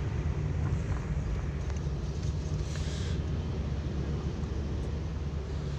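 Road noise inside a moving taxi: a steady low rumble of engine and tyres, with a brief rise of hiss about two and a half seconds in.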